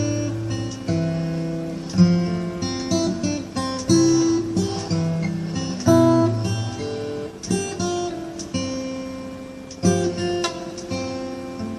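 Acoustic guitar music: plucked notes and strummed chords ring out and die away, with a loud chord struck about every two seconds.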